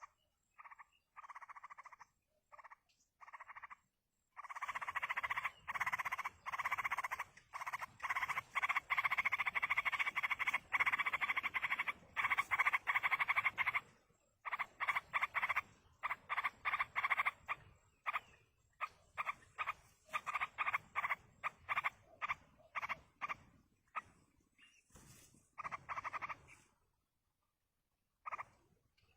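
Yellow-vented bulbul chicks begging as they are fed: rapid, scratchy repeated calls. They come in short bursts at first, turn to a loud continuous chatter for several seconds, then break up into shorter bursts that die away near the end.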